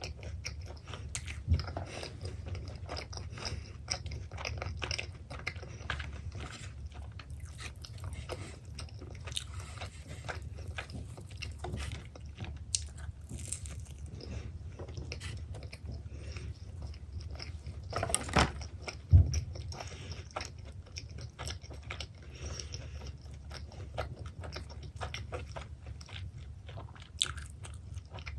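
Close-miked biting and chewing of pepperoni pizza, with crunches and wet mouth clicks over a steady low hum. A couple of louder knocks come about two-thirds of the way through.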